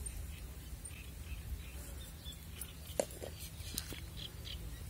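Faint, scattered bird calls over a low steady rumble, with a single sharp click about three seconds in.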